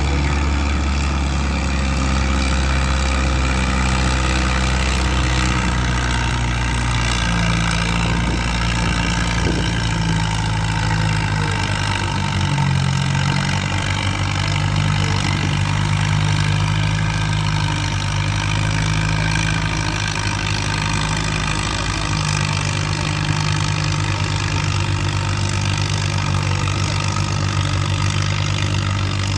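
Heavy vehicle engine running loud and steady for the whole stretch, its pitch shifting up and down in steps several times as the revs change.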